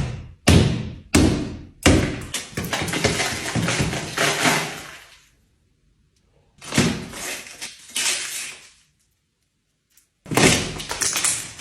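Blows knocking a hole into a wall: three hard thuds in quick succession, then a denser stretch of knocking and scraping. Two more bursts of the same work follow, each after a sudden silent gap.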